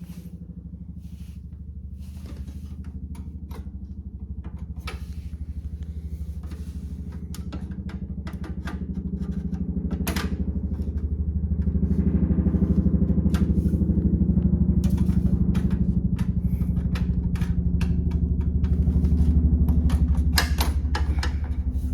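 A steady low machine hum that grows louder about halfway through, with scattered clicks and knocks of a PCIe adapter card being worked into a PC case.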